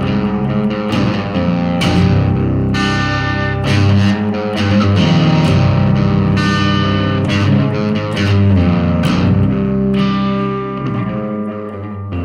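Electric guitar played through effects with light distortion, sustained notes and chords changing every second or so.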